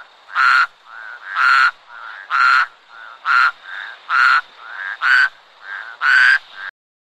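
Frog croaking: a loud call about once a second, with a softer call in between each pair. The calls stop just before the end.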